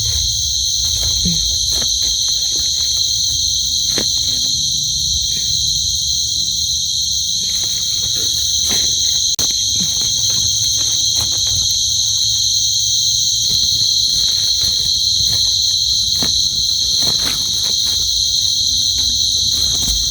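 Steady night chorus of crickets and other insects, a continuous high-pitched trill that never breaks. Scattered short clicks and rustles sound over it.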